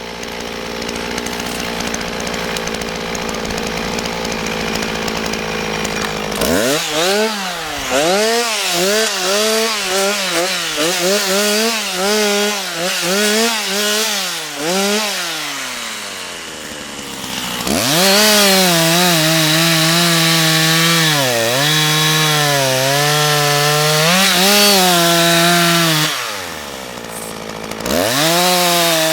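Husqvarna two-stroke chainsaw running steadily, then opened to full throttle about six seconds in. Its revs dip repeatedly as it cuts into wood. It falls back, revs up again for a second long cut, drops once more and is throttled up near the end.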